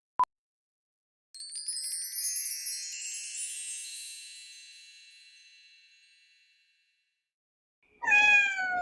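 A short beep, then an editing sound effect of sparkling wind chimes: a glittering cascade of high tinkling tones that rings out and slowly fades over about five seconds. Near the end, a short meow-like call with a slightly falling pitch.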